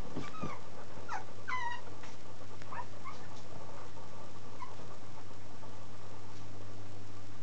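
Young Chihuahua puppy whimpering: a handful of short, high, falling whines, most in the first three seconds and one fainter one a little later.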